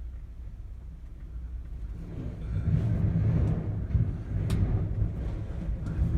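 Low rumble inside a gondola cabin riding in high wind, swelling louder about two seconds in, with one sharp click a little after the middle.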